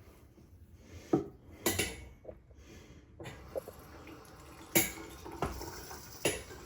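Four sharp clinks and knocks, spaced unevenly, from tools and drain fittings being handled while plumbing a sink drain.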